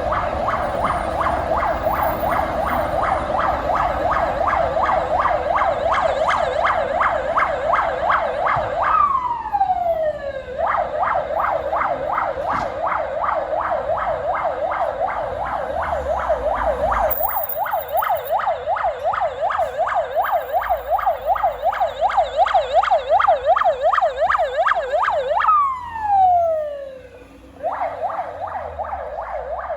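Siren on a Russian fire service command vehicle, sounding a fast rising-and-falling warble. Twice the pitch slides down as the tone winds off, then the warble starts up again. A truck engine rumbles underneath.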